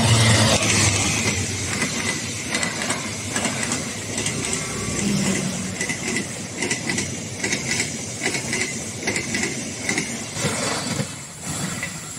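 Diesel-hauled passenger train passing close by. The locomotive's engine is loudest right at the start, then the carriages roll past, their wheels clattering over the rail joints.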